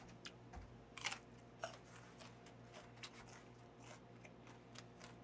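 A man biting into and chewing a raw stalk of Korean green onion (daepa). Faint, irregular crisp crunches, the loudest about a second in.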